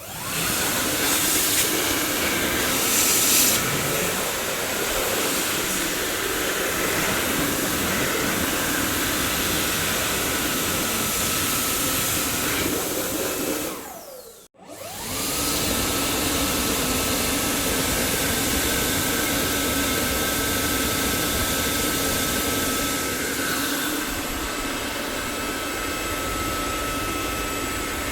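Dyson vacuum cleaner running: a steady rush of air with a thin high motor whine. Just before halfway it winds down and cuts out for a moment, then spins back up and settles into the same steady run.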